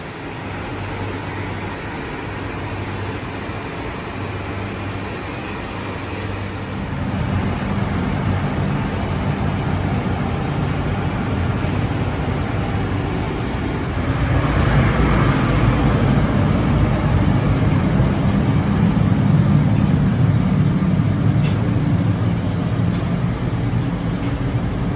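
Steady machinery drone aboard a ship, a low hum under a broad rushing noise, growing louder about seven seconds in and again about halfway through.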